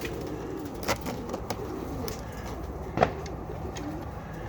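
Domestic pigeons cooing in a loft, with a few sharp knocks, the loudest about three seconds in.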